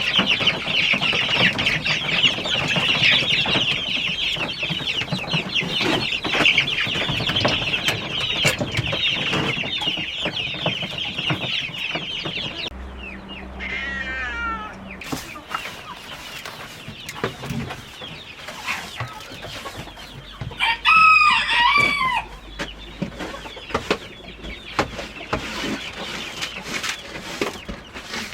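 A flock of chickens clucking and chattering. Partway through, the sound changes abruptly to quieter clucking with a single call, and later a rooster crows once, loud and about a second and a half long.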